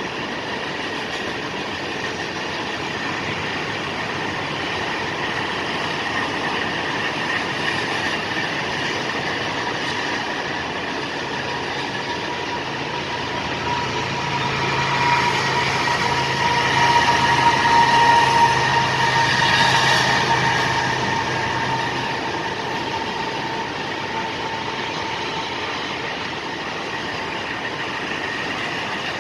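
CSX freight train cars rolling past, a steady rumble of wheels on rail with a thin, steady wheel squeal. About halfway through, a low engine hum joins and the passing grows louder for several seconds, then eases back to the rolling of the cars.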